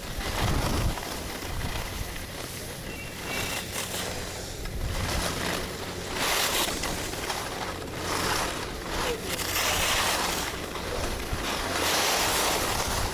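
Skiing downhill: repeated surges of skis scraping and hissing across snow, with wind rushing over the microphone.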